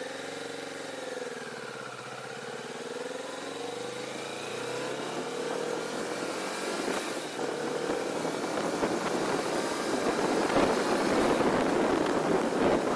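2024 Kawasaki Vulcan S's parallel-twin engine pulling away and accelerating, its pitch dipping once and then climbing. Wind rushing over the camera's microphone builds from about five seconds in and grows louder until it swamps the engine.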